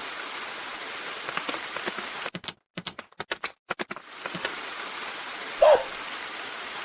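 Steady rain-like hiss, briefly chopped into short stuttering pieces with dropouts in the middle. A short, loud pitched sound comes near the end.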